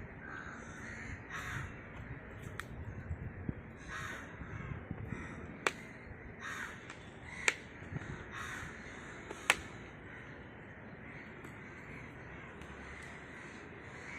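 Crows cawing over and over, with three sharp clicks a couple of seconds apart near the middle.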